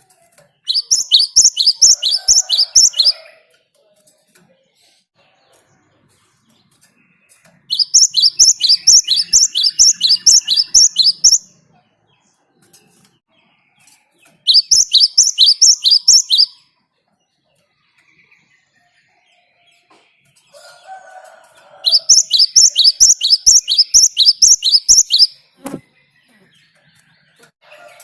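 Cinereous tit (gelatik batu) singing: four bouts of a fast, evenly repeated high note, about three or four a second, with pauses of a few seconds between bouts.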